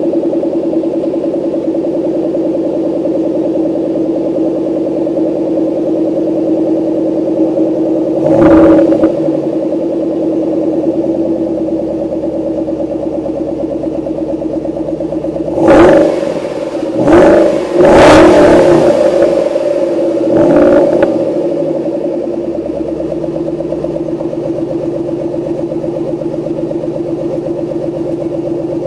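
2011 Shelby GT500's supercharged 5.4-litre V8 idling on its stock exhaust and mufflers, revved briefly five times: once about eight seconds in, then four quick blips in a row between about 16 and 21 seconds in, settling back to a steady idle each time.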